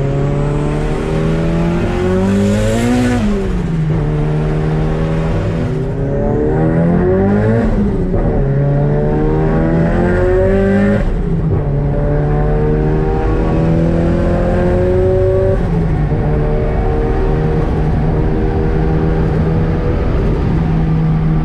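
Nissan Silvia S15 running through a TOMEI full titanium exhaust, blipped up and back down about three seconds in and again around seven seconds in. It then climbs slowly under a held throttle, drops back about eleven seconds in, and settles into a steady run.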